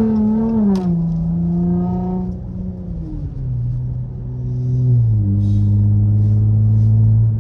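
Straight-piped Dodge Charger SXT's 3.6-litre V6 exhaust droning at a steady pitch that steps lower a few times, settling into a deeper, louder drone from about five seconds in.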